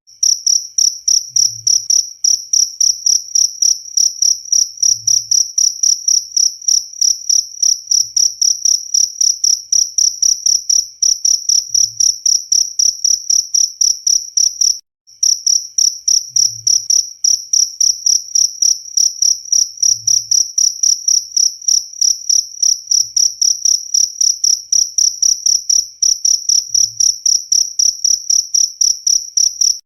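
Cricket chirping loudly in an unbroken train of evenly spaced, high-pitched chirps, cutting out for a moment about halfway through.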